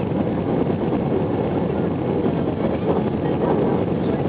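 Airbus A320 airliner after takeoff: a steady, even rush of jet engine and airflow noise with no changes in level.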